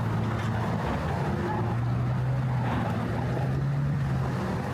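City street traffic, with a nearby vehicle engine running as a steady low hum that shifts slightly in pitch.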